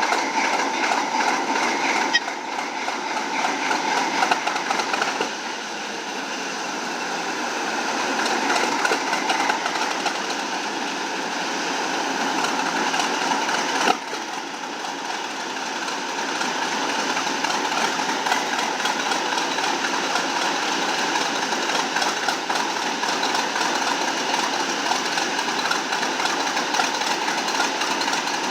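Large diesel engine running steadily, with sudden jumps in the sound about two seconds in and again about fourteen seconds in.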